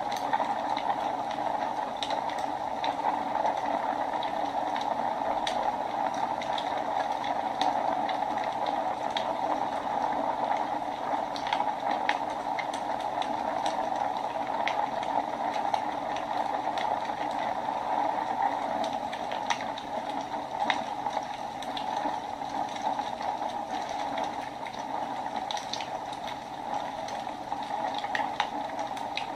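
Wood fire burning in a fireplace: a steady hiss with many sharp crackles and pops at irregular moments.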